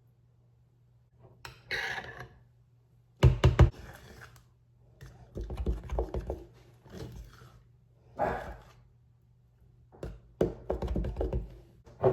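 A series of separate thunks and knocks in a small room, the sharpest a quick cluster of knocks about three seconds in, over a faint steady low hum.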